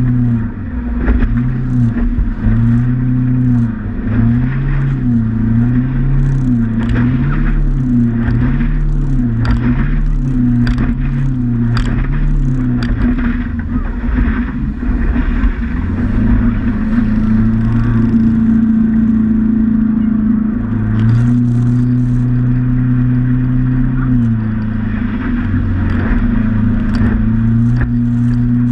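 Motorboat engine running under way, its drone wavering up and down in pitch about once a second for the first dozen seconds, then holding steady with a couple of brief dips. Scattered crackles and rustle ride on top.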